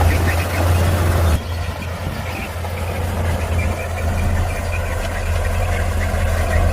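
Heavy diesel engine of earthmoving machinery running with a steady low drone, which drops suddenly in level about a second and a half in and then carries on.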